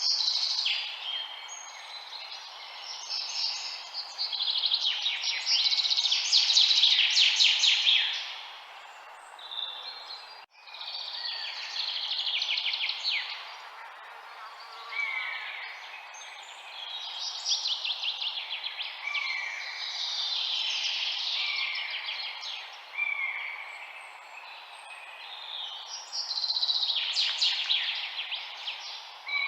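Several songbirds chirping and singing over one another in rapid trills and short falling notes, over a steady background hiss, with a brief dropout about ten seconds in.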